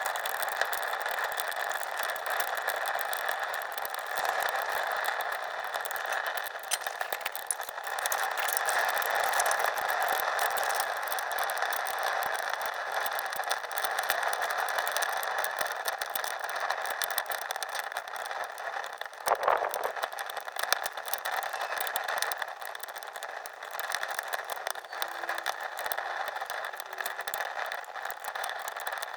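Wood fire in a rocket stove crackling steadily, dense small pops over a hiss, with one louder crack about two-thirds of the way through.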